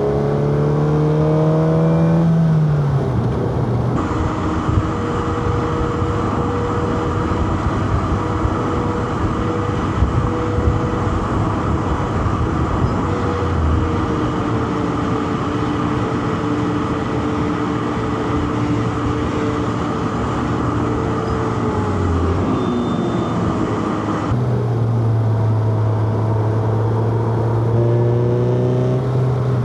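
Four-cylinder car engine under hard acceleration on a mountain road, revs climbing and then falling away about two to three seconds in. A long stretch of steadier engine, road and wind noise follows, then the revs climb again near the end.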